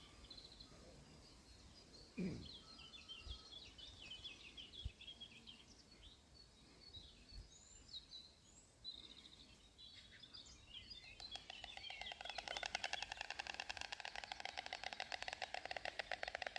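Songbirds chirping faintly, then about two-thirds of the way in a white stork starts bill-clattering: a fast, even wooden rattle that keeps going to the end.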